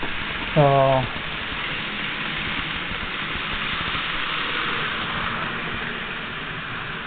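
A steady hiss that swells towards the middle and eases off near the end, with a brief spoken sound less than a second in.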